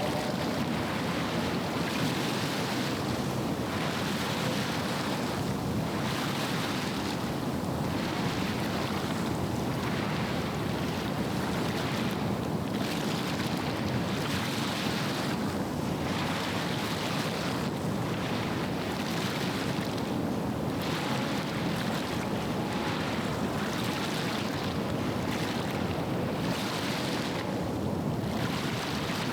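Small waves washing onto the shore, swelling every second or two, over a steady rush of wind on the microphone.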